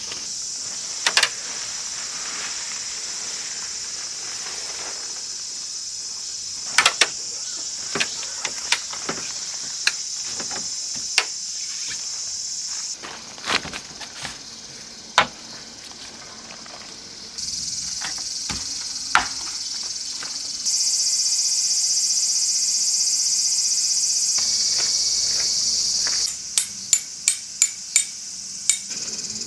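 Crickets and other insects chirring steadily, with scattered sharp knocks and clicks on top; near the end comes a quick run of about seven knocks.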